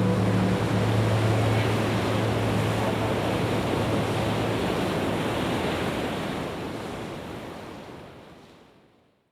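Steady road and wind noise from a moving car, an even rush with a low hum under it, fading out near the end.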